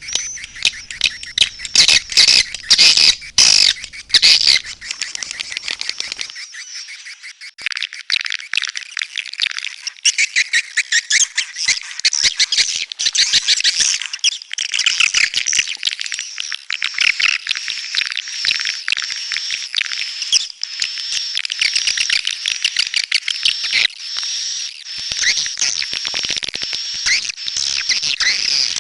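Swiftlets (walet) calling: a dense, continuous twittering of rapid chirps and trills, loudest in the first few seconds.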